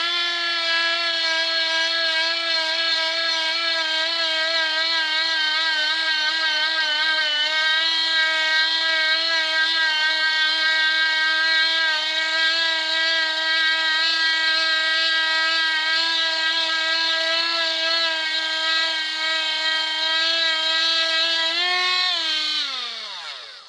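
Parkside cordless multi-grinder (a rotary tool) running at speed while buffing silverware, a steady high whine whose pitch dips slightly now and then under the load of polishing. Near the end it is switched off and the whine falls in pitch as the motor spins down.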